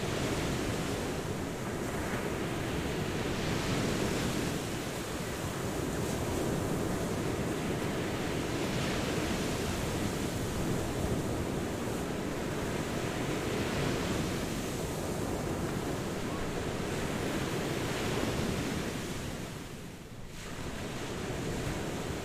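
Ocean surf washing on a shore in a continuous hiss that swells and eases every few seconds as waves break. It dips briefly near the end before the next wave builds.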